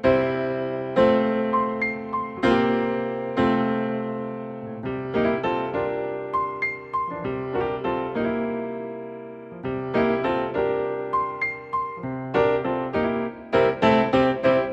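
Background music: a solo piano playing slow chords that ring and fade, with quicker notes near the end.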